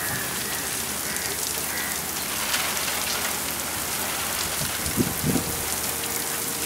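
Heavy artificial rain from a film set's rain machine, pouring down steadily and pattering on the ground and the people standing in it.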